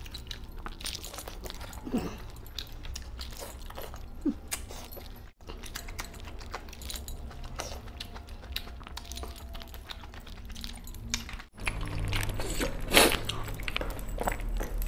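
A person eating chicken and mutton by hand: chewing and lip-smacking with many short clicks, broken by two brief dropouts, about five seconds in and near eleven and a half seconds.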